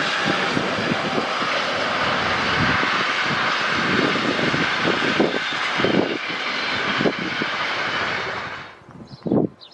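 Train hauled by an SBB Re 420 (Re 4/4 II) electric locomotive passing close by: a loud, steady rush of wheel-on-rail and running noise with repeated low thumps, cut off suddenly near the end.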